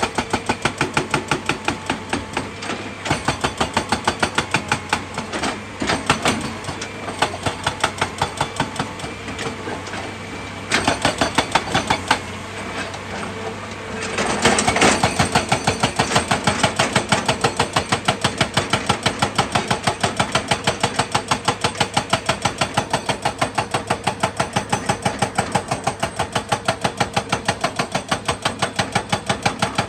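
Excavator engine running with a fast, even pulsing of about four beats a second. The pulsing falls off briefly about a third of the way in and comes back louder about halfway through.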